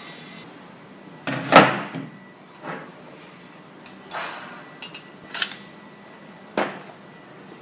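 Stud welding gun firing: a series of short, sharp cracks about one every second or so, the one about a second and a half in the loudest.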